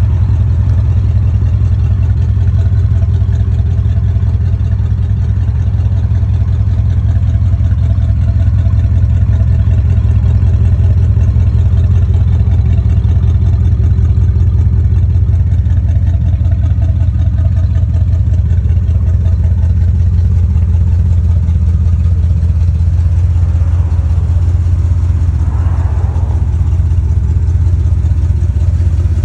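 1973 Buick Centurion's V8 idling steadily, with an even, low exhaust pulse.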